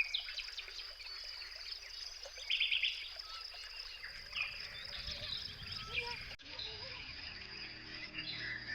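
Outdoor countryside ambience: a steady high-pitched insect trill with scattered bird chirps and short calls over it, and a brief louder burst of chirping about two and a half seconds in.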